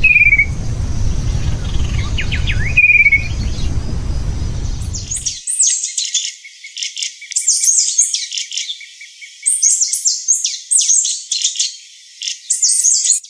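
Small songbird singing: bursts of rapid, very high twittering notes. During the first five seconds there is a low rumble with two short falling whistles.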